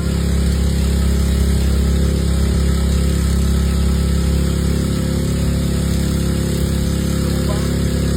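An engine running steadily at idle, a constant low hum, with an even hiss over it.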